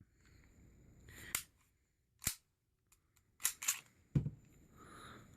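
A WE-Tech M&P9 gas blowback airsoft pistol being handled: about five sharp metallic clicks and snaps spread over a few seconds, the last with a dull knock.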